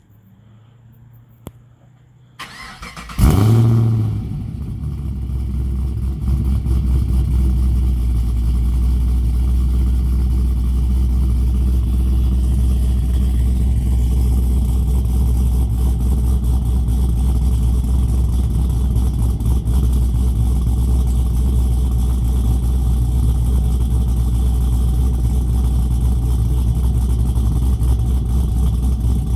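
Holden VF Commodore SS's 6.0-litre V8, with its exhaust resonators deleted, cranking and firing about three seconds in with a loud flare of revs that quickly drops back, then idling steadily with a deep, low exhaust note.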